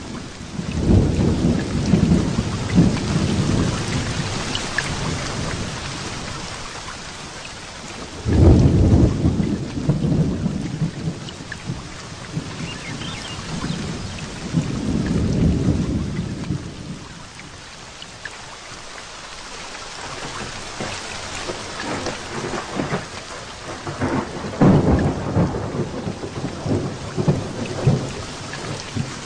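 Heavy rain falling steadily through a thunderstorm, with thunder rumbling several times. There is a long roll from about a second in, a sudden loud clap near eight seconds, another rumble around fifteen seconds, and crackling rolls near the end.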